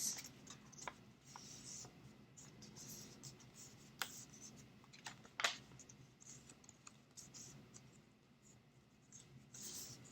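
Folded paper being handled and pressed together: faint rustling and scraping, with two sharp taps about four and five and a half seconds in.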